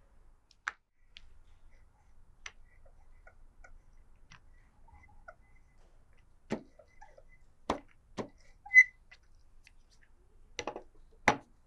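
Scattered, irregular clicks and knocks, as of small objects being handled, with one short high ping about nine seconds in.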